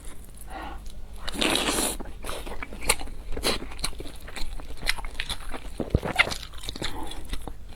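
Close-miked eating sounds: a person biting and chewing food, with many short sharp clicks and a longer noisy stretch about a second and a half in.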